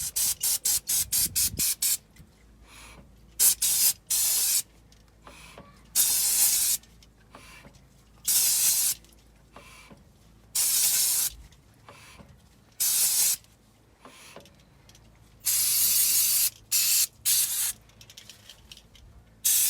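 Aerosol spray hissing in repeated bursts: a quick run of short puffs at the start, then longer sprays of about half a second to a second, every couple of seconds.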